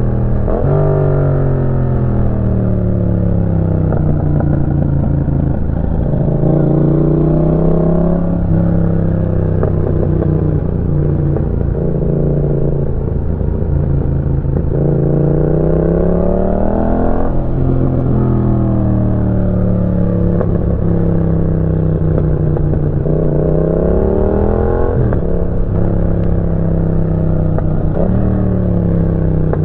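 Yamaha MT-07's 689 cc parallel-twin engine through a Roadsitalia aftermarket exhaust, ridden on the road, its revs climbing and dropping again and again as it accelerates, shifts and slows.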